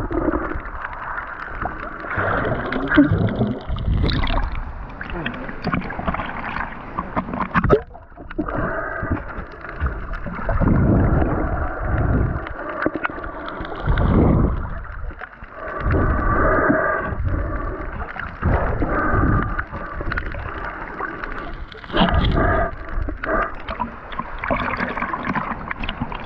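Water sloshing and gurgling, swelling and easing every couple of seconds, as heard while spearfishing in the sea.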